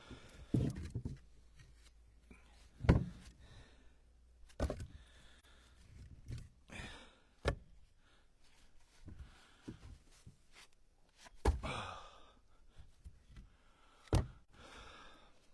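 Split ash firewood pieces knocking as they are set down and stacked by hand in a pickup truck bed: about six separate wooden knocks at uneven intervals, the loudest about three seconds in and near twelve seconds.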